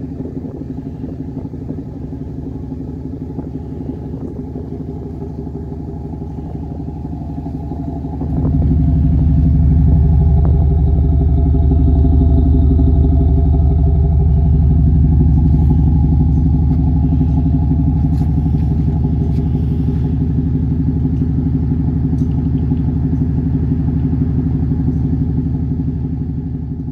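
Audi A6 3.0 BiTDI twin-turbo V6 diesel idling at the tailpipes, its note shaped by an exhaust sound actuator module. It runs steadily, growing louder and deeper about eight seconds in and staying so.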